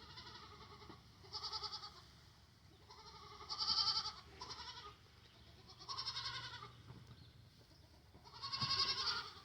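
Dairy goats bleating: a series of about six wavering bleats a second or two apart, the loudest about four seconds in and near the end.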